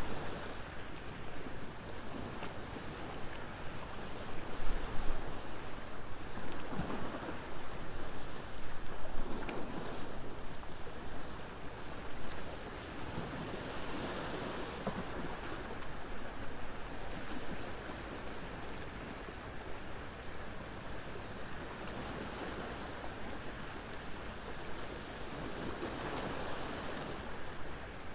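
Sea waves washing onto the shore, the surf swelling and falling away every several seconds, with a wood bonfire crackling faintly now and then.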